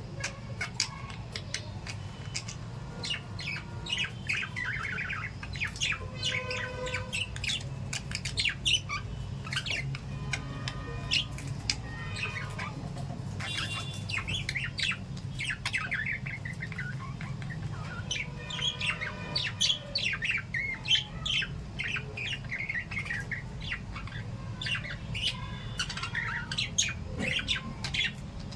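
A group of caged small parrots, lovebirds and budgies, chirping and squawking constantly in quick, overlapping calls, over a steady low hum.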